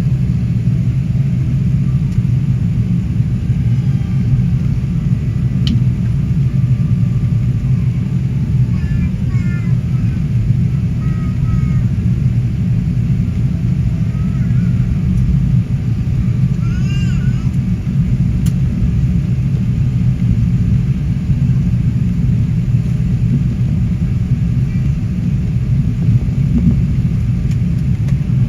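Airbus A380 airliner noise: a loud, steady low rumble of engines and airframe, holding an even level throughout.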